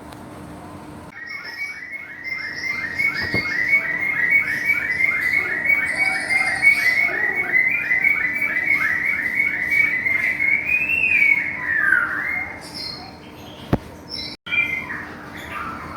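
White-rumped shama (murai batu Medan) singing: a long, rapid run of the same short downslurred note, about three a second for some ten seconds. The run ends in a rising-then-falling slur, followed by scattered short phrases.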